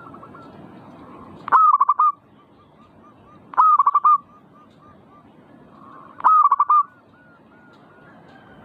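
Zebra dove (perkutut) singing: three loud bursts of quick cooing notes, a couple of seconds apart, each followed by a few softer trailing coos.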